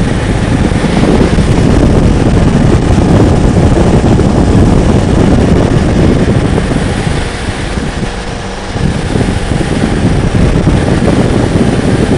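Motorcycle riding at road speed: wind rushing over the microphone with the engine running underneath. It eases for a moment about seven seconds in, then comes back up.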